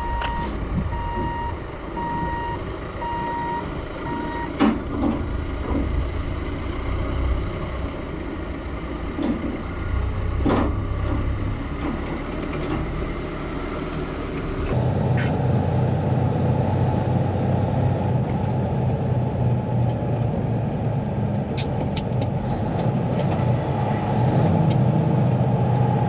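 Reversing alarm beeping about twice a second over a diesel engine running; the beeping stops a few seconds in. About halfway through, the sound switches abruptly to a steady, louder engine drone.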